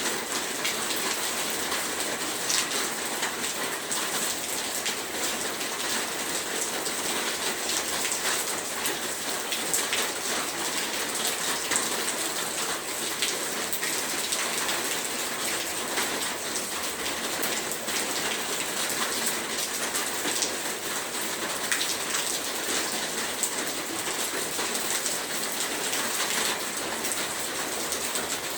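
Heavy rain falling steadily: a dense, even hiss with many fine drop patters throughout.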